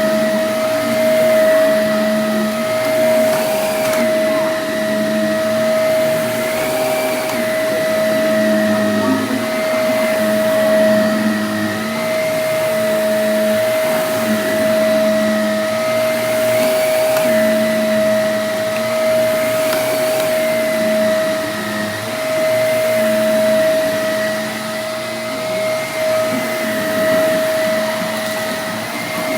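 Vacuum cleaner running with a steady motor whine, its sound swelling and easing every couple of seconds as it is pushed back and forth over the floor.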